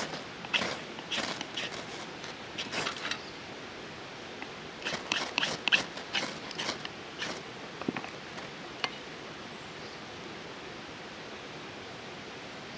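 Bursts of short scraping and rustling strokes with a couple of light knocks: small sticks and kindling being handled and arranged in a small folding wood stove. A steady faint hiss follows in the last few seconds.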